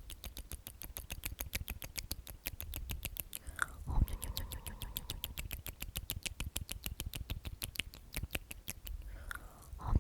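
Whispered 'omnomnom' mouth sounds close to the microphone: a rapid, even run of wet lip and tongue clicks, about seven or eight a second. The run breaks briefly just before four seconds in and again near the end.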